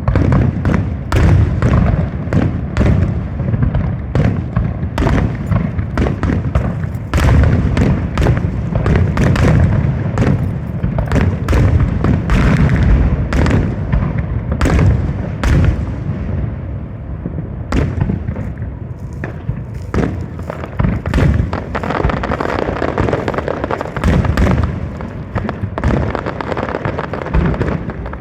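Fireworks display: a continuous barrage of bangs and deep thumps from exploding aerial shells, several a second, easing slightly about two-thirds of the way through.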